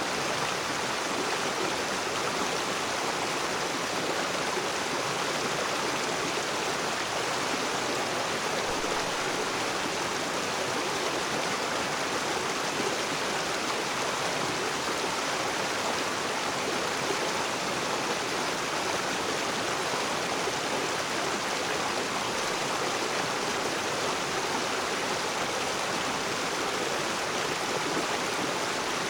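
Rocky river water rushing and splashing over rocks in a steady, unbroken wash.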